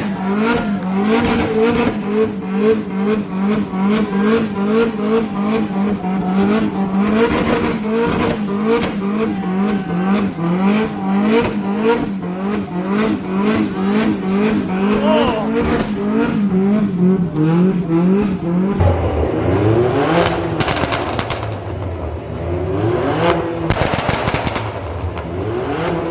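Car engine held at high revs, its pitch wavering up and down in a steady rhythm, with rapid exhaust pops and bangs cracking over it. About 19 seconds in, a deeper engine rumble joins with revs rising and falling.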